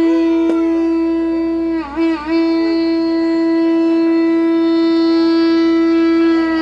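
A wind instrument holding one long, loud, steady note. The note wavers briefly in pitch about two seconds in and stops near the end.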